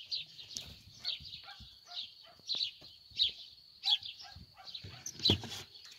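Small birds chirping in the background: many short, high, downward-sliding chirps at an irregular pace, with a few soft knocks in between.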